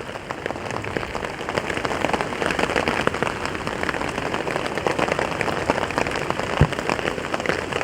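Steady rain pattering densely on a hammock's tarp fly, a continuous rush of many small drop strikes.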